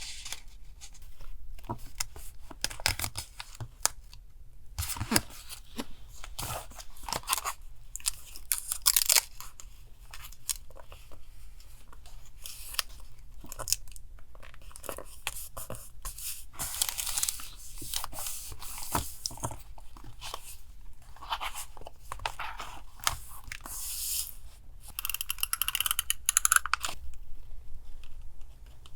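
Paper being handled for collage: rustling, crinkling and tearing, with many small taps and clicks. Underneath runs a steady low hum from a refrigerator.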